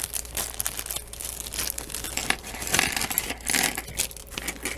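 Small plastic bag being opened and handled, crinkling and crackling with many small clicks, loudest around three seconds in.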